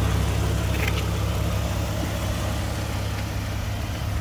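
2002 Jeep Grand Cherokee engine idling steadily, a low even rumble.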